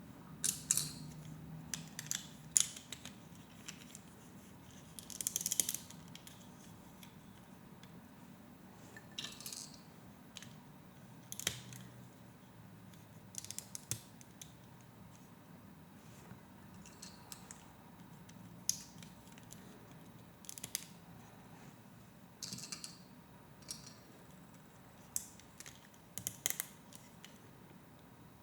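Plastic Lego Technic pieces clicking and rattling as they are handled and pressed together. There are scattered sharp clicks and short spells of rattling, a few seconds apart.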